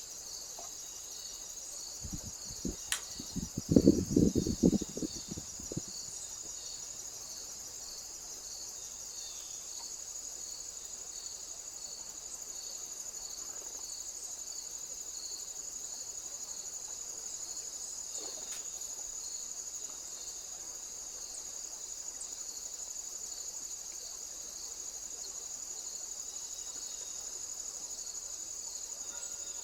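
Crickets and other insects chirping steadily, one with a regular pulsed chirp. About two seconds in, a run of low thumps and knocks, loudest around four seconds, dies away after a few seconds.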